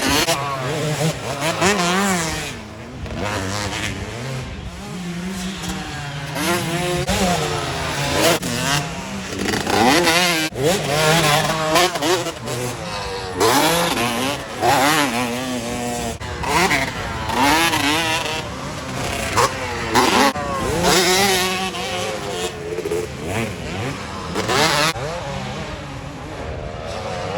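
Several motocross bikes racing, their engines revving up and down over and over as they accelerate and shift, with several bikes overlapping.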